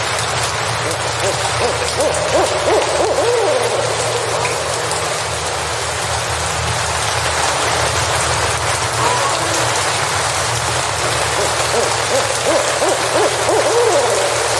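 Steady rain falling, an even hiss. Wavering, pitched calls rise over it twice, about two seconds in and again near the end.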